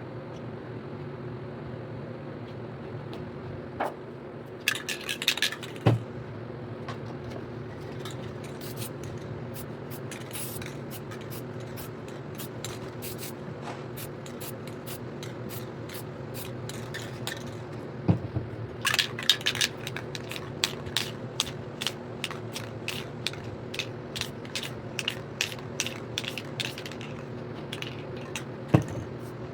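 Aerosol spray paint can sprayed in many short, quick bursts, in two runs, the second one longer. There are a few dull knocks between the runs and a steady low hum underneath.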